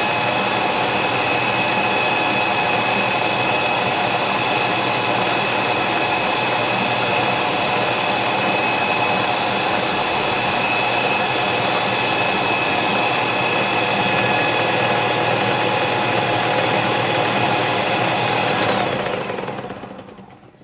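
Electric kitchen mixer running steadily at speed with a high whine, mixing a batch of milk, eggs and sugar; near the end it is switched off and its whine falls away as it spins down.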